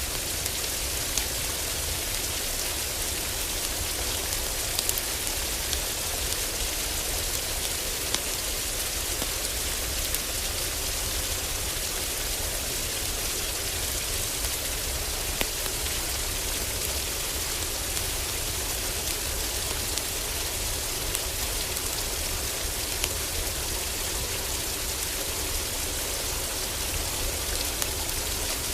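Steady heavy rain drumming on a roof, with a low rumble underneath and scattered sharp crackles and pops from a wood fire in a fireplace.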